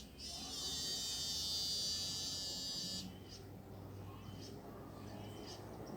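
A high, buzzing insect trill that holds steady for about three seconds and cuts off suddenly, followed by short, spaced high chirps.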